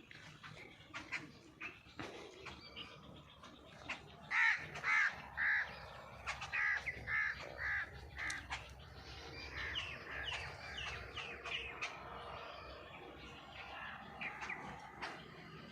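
Birds calling: a run of about eight loud, evenly spaced calls midway through, followed by a quicker series of short falling calls, with lighter chirping throughout.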